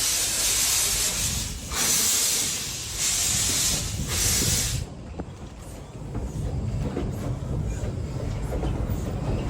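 Steam locomotive letting off steam in four loud hissing bursts of about a second each, which cut off suddenly about five seconds in. A low rumble with a few faint clicks follows and slowly grows louder.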